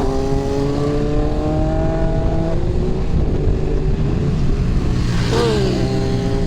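Motorcycle engine pulling up steadily in revs under acceleration for a couple of seconds, then holding, over heavy low rumbling road noise. A brief wavering tone sounds about five seconds in.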